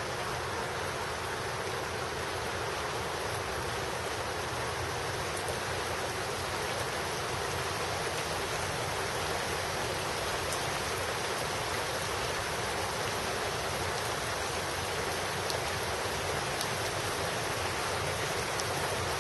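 Steady rain falling, an even hiss with a few faint single drop ticks.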